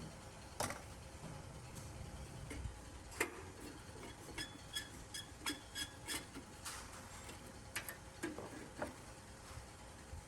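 Light, irregular clicks and taps of hand work on small hard parts, with a quick run of about eight ringing taps in the middle, over a faint steady hum.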